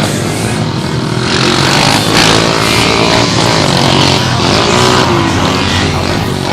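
Pit bike engines running hard and revving up and down as the small motorcycles race.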